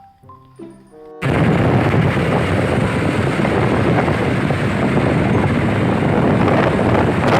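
Loud, steady engine-like rumble of a vehicle sound effect, starting abruptly about a second in after a bit of light background music.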